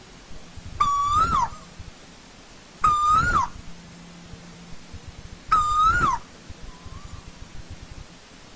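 Asian koel calling three times, a couple of seconds apart. Each call is a loud, clear note held briefly, rising a little and then falling away.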